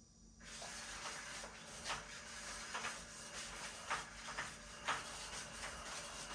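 Soft rustling and shuffling with irregular light taps and scrapes, starting about half a second in.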